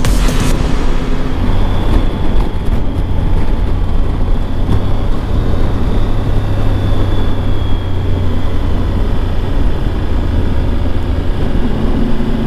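Motorcycle under way on the road, a 2023 Triumph Tiger 1200 GT Pro: a steady, loud engine hum mixed with road and wind noise.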